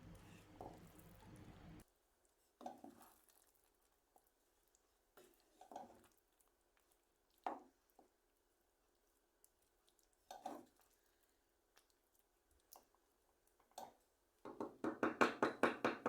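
Brief, scattered kitchen noises from a pan of simmering curry being stirred and its lid handled, ending in a quick run of clattering strokes near the end. A steady low hum stops about two seconds in.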